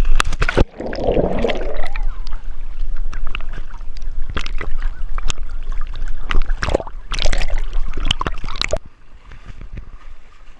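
Water splashing in repeated sudden surges over a low rumble of wind on the microphone, cutting off about nine seconds in.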